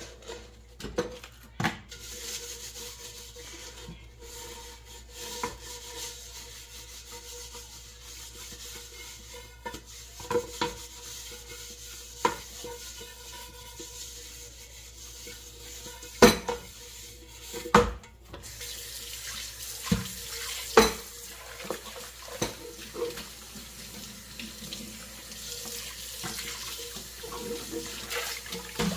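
Tap running into a kitchen sink while dishes are washed by hand, with frequent clinks and knocks of dishes and cutlery, a few sharp knocks louder than the rest around the middle.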